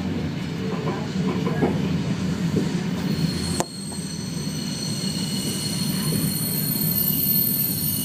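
Flåm Railway train running on the rails with a steady rumble, its wheels squealing in thin high tones from about three seconds in. A sharp click and a brief drop in level come near the middle.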